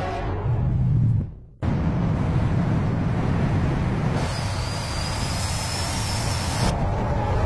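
A car engine running with a dense low rumble. It fades and cuts out about a second and a half in, then comes straight back. A thin high whine sounds over it for a couple of seconds midway.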